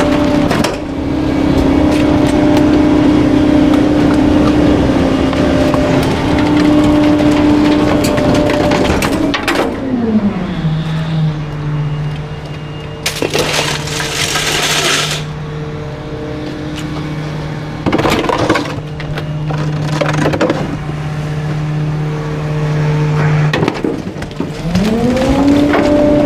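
Garbage truck engine held at raised revs to drive the packer, with cracking and splintering as bulky items are crushed. About ten seconds in, the engine drops back to idle, with a hiss lasting a couple of seconds; near the end it revs up again for the next compaction.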